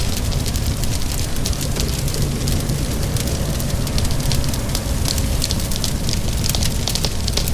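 Crackling fire with frequent sharp pops and snaps over a steady low rumble, mixed with a constant hiss of rain.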